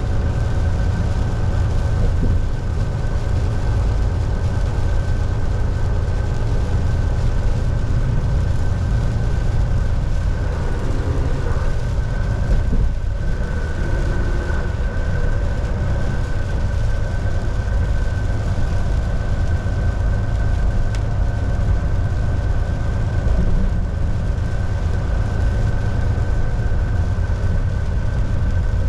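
Volvo VNL 760 semi truck cruising, heard from inside the cab: a steady low engine drone with road noise, and a thin steady whine above it.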